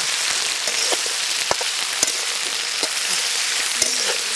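Cut okra sizzling in hot oil in an aluminium pot, with a few sharp clicks of a metal spatula against the pot as it is stirred.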